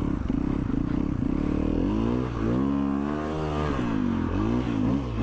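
Snowmobile engine running under throttle as the sled pulls away. It holds steady at first, then its pitch rises and falls several times from about two seconds in as the throttle is worked.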